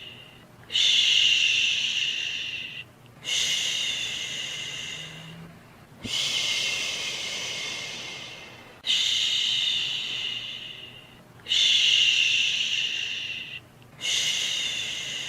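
Human shushing 'shhh', repeated about every two and a half seconds, each one starting sharply and fading away before a short pause: a soothing shush for lulling a baby to sleep.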